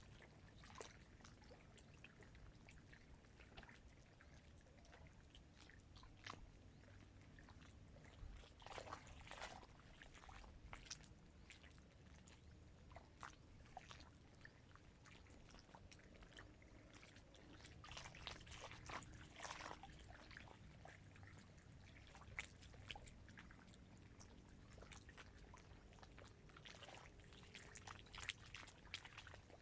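Small waves of dam water lapping faintly and irregularly at the shore, with scattered soft splashes over a low rumble.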